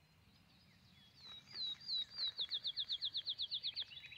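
A bird singing: whistled falling notes, slow at first, then speeding into a fast even run of about eight notes a second that stops shortly before the end. Other birds chirp faintly around it.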